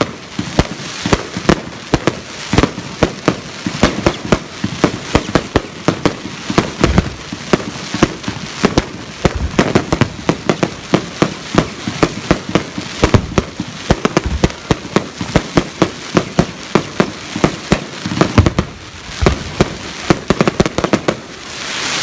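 Fireworks display going off in a rapid, unbroken barrage of sharp bangs and crackles, several every second. Near the end a rising hiss builds under the bangs.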